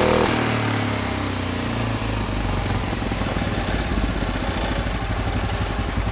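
Case yard tractor's 10 hp Kohler engine running at full throttle, then dropping in speed in the first second and settling to a lower, steady run. The governor is cutting the throttle back to about half.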